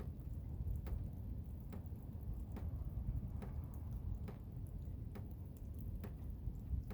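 Blizzard wind making a steady low rumble, with faint, evenly spaced ticks a little under once a second.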